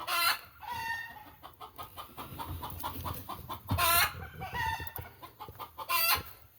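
Hen's egg song after laying: runs of short clucks broken by three loud, drawn-out squawks, one right at the start, one about four seconds in and one near the end.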